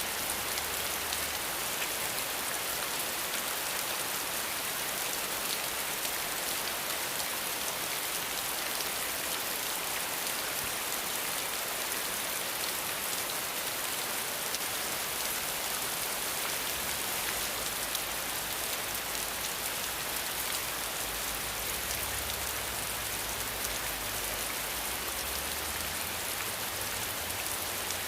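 Steady heavy rain falling on a surface: a dense, even patter of many drops, with no change in strength.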